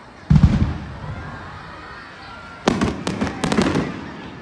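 Aerial fireworks: a deep boom about a third of a second in, then a quick run of sharp bangs and crackles a little before three seconds in, lasting about a second.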